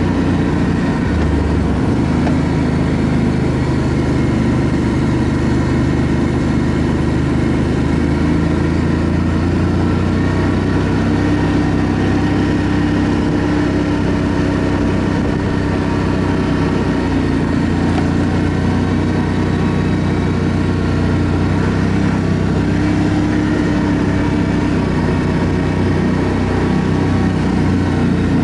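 ATV engine running steadily while riding, its pitch holding nearly even with small rises and dips.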